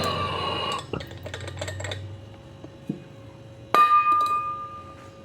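A steady mechanical running sound cuts off under a second in, light rattling clicks follow, then a single sharp metallic clink that rings on for about a second.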